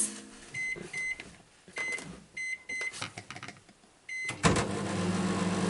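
Microwave oven being set: a series of short beeps from its keypad with small clicks between them, then about four seconds in the oven starts running with a steady hum.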